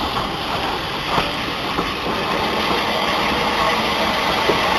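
Railway train running on the track: a steady rumble and hiss with a few sharp wheel clicks.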